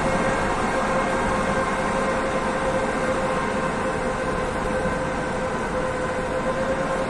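EP2K electric locomotive under way with a passenger train: a steady multi-tone whine from its electrical running equipment over a continuous rumble, easing off very slightly.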